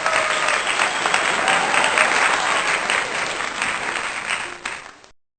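Applause: many hands clapping in a dense crowd, fading out near the end and stopping abruptly about five seconds in.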